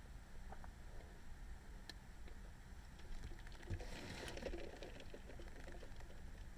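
Quiet car interior at night: a low steady rumble with faint scattered ticks, and a brief rustle about four seconds in.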